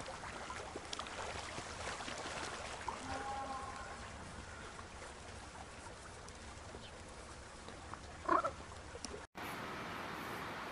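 Small waves washing softly onto a sandy beach, with a faint short bird call about three seconds in and a louder, brief one shortly before the end of the beach sound. A little after nine seconds the sound cuts abruptly to a steady hiss.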